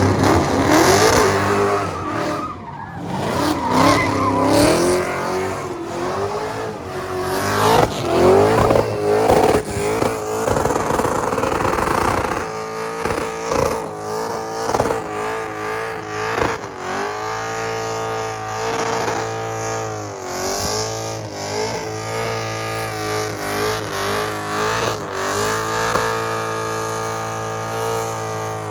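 Car engine revved hard with tyres squealing, as in a burnout or donuts. The revs rise and fall for the first dozen seconds, then hold high and waver while the tyres spin.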